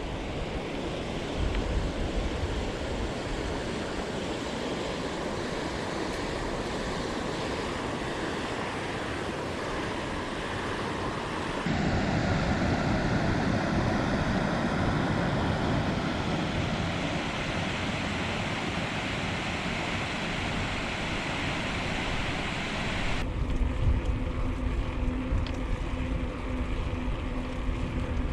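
Wind rushing over the microphone of a moving bicycle, with rumble from the ride. The noise changes abruptly twice, about twelve seconds in and again near the end, where a faint steady hum joins it.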